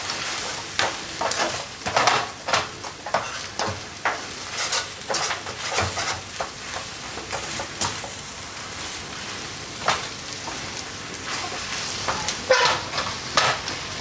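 Chicken chow mein being stir-fried in a hot pan: a steady sizzle, with irregular scrapes and clatters of the utensil against the pan as the noodles and vegetables are tossed. The clatter is loudest near the end.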